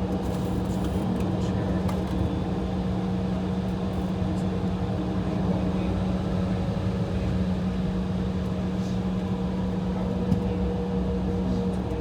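Steady cabin drone of an Embraer E175 sitting with its engines idling, a constant low hum with a fainter higher tone above it. A single light click about ten seconds in.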